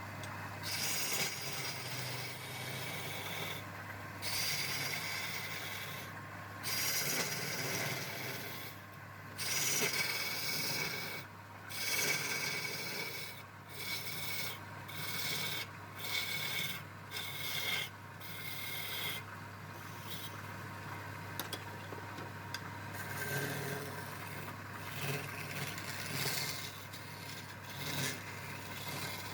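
Rasping, rubbing strokes of a hand tool on wood, such as filing or sanding, repeated about once a second with short pauses between them, over a steady low hum.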